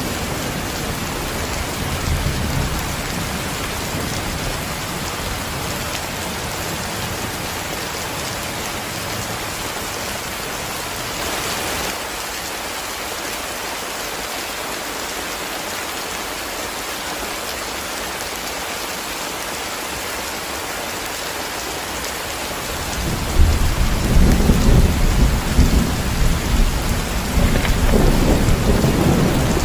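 Heavy rain falling steadily in a thunderstorm, with low rolling thunder. The thunder fades for a while, then a loud, long rumble of thunder swells in about three quarters of the way through.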